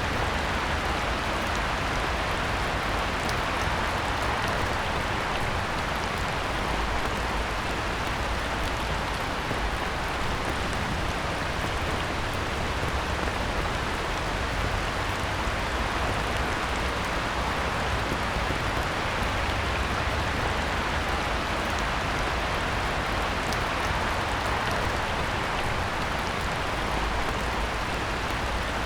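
Heavy rain falling steadily on a pond: an even downpour hiss with scattered drop ticks, unchanging throughout.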